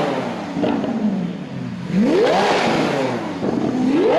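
Lamborghini Aventador V12 engines being revved. The pitch falls back from a rev at the start, rises sharply about two seconds in and drops back to idle, then climbs again near the end.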